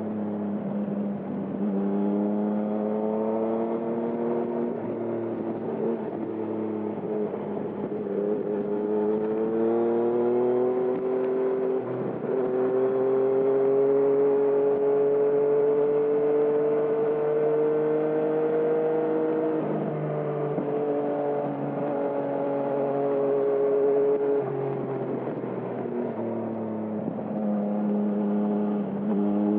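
Yamaha MT-09 (2020) three-cylinder engine running through a Termignoni exhaust while riding. The engine note rises and falls several times with throttle, with sudden drops in pitch about twelve seconds in and again near twenty seconds.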